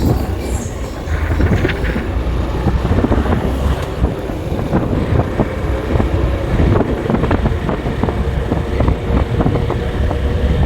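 Vehicle travelling on a road, with a heavy low rumble and wind buffeting the microphone, plus frequent short knocks and rattles.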